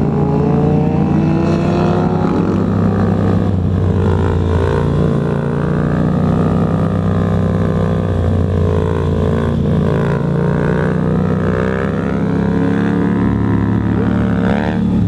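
Yamaha FZ-07 parallel-twin motorcycle engine running under way, its pitch rising and falling gently with the throttle.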